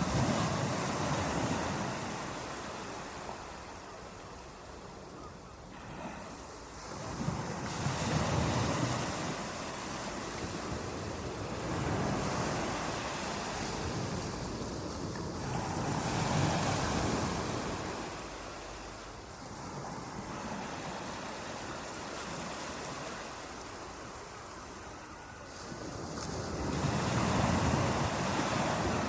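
Ocean waves washing onto a shore, swelling and fading in surges every several seconds.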